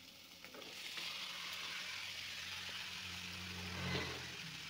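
Chopped cactus stem pieces hitting hot oil in a pan with frying onions and tomatoes, setting off a steady sizzle that starts about half a second in. A faint low hum runs underneath.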